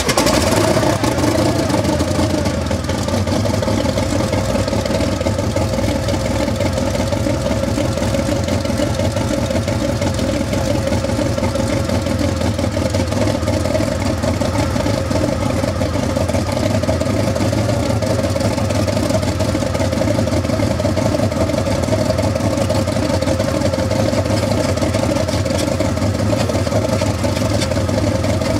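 Kamov Ka-26's Vedeneyev M-14V-26 nine-cylinder radial engine running steadily at idle after a cold start. It comes in loudly all at once at the start and holds an even note throughout.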